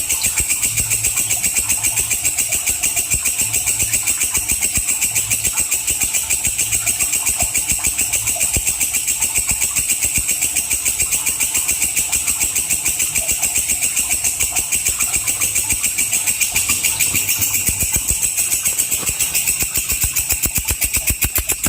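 Walang kecek katydid stridulating: a continuous, sharp, high-pitched buzzing trill made of very rapid, even pulses, easing slightly in loudness near the end.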